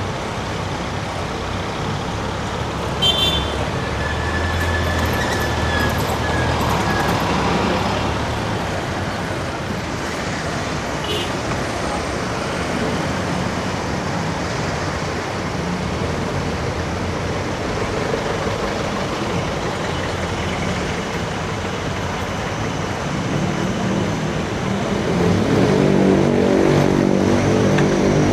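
Road traffic close by, heard from a moving bicycle: motor vehicles running alongside, with a brief high squeal about five seconds in. Near the end a vehicle engine comes up close with a louder, steady drone.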